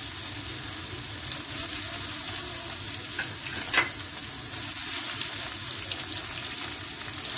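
Chopped tomato frying in hot oil with garlic and mustard seeds in a black karahi, sizzling steadily as a spatula stirs it. One sharp click sounds a little under four seconds in.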